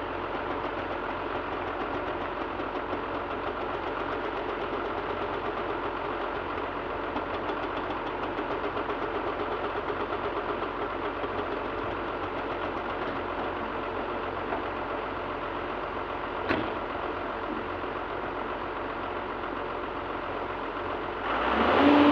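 JCB JS215LC excavator's diesel engine running steadily, with one sharp knock about sixteen seconds in. Near the end it gets louder and a steady whine comes in.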